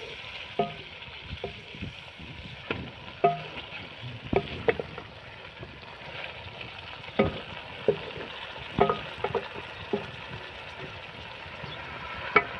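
Chicken frying in oil in a large metal pot, sizzling steadily, while a wooden spoon stirs it, scraping and knocking against the pot at irregular moments.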